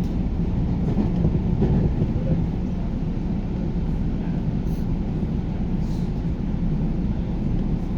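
Inside a JR New Rapid commuter train running along the line: a steady low rumble of wheels on rails and running gear, with a few faint light ticks.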